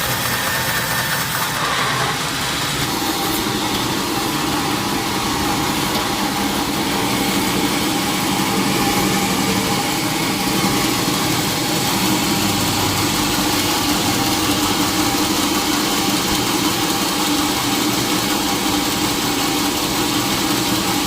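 Sawmill machinery running steadily, a continuous engine-like hum with no cutting strokes or impacts standing out.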